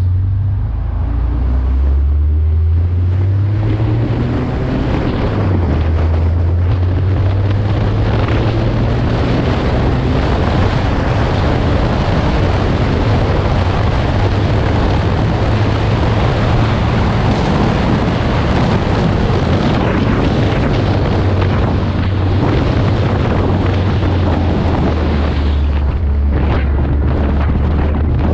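Porsche 944S's four-cylinder engine pulling away and revving up through the first gear changes, then running hard at speed under heavy wind buffeting on the microphone. The wind noise drops away about three seconds before the end as the car slows.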